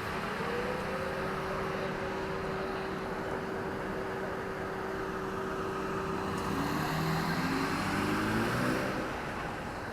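Road traffic: a steady engine hum, then a vehicle accelerating past, its pitch rising and loudest about nine seconds in.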